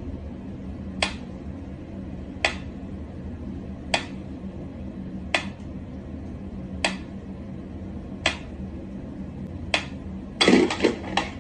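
Sharp taps on a hard surface, one about every second and a half, then a quick cluster of several louder ones near the end, over a steady low hum.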